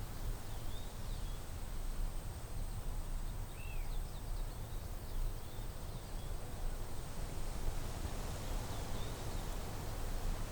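Outdoor forest ambience: a fluctuating low rumble of wind on the microphone, with a few short, high bird chirps scattered through and a faint steady high-pitched whine underneath.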